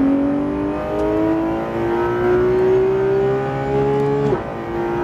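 Porsche 911 GT3 RS's naturally aspirated flat-six under full throttle, heard from inside the cabin, its pitch climbing steadily as the car accelerates hard. About four seconds in, the pitch drops abruptly as the driver lifts off to brake.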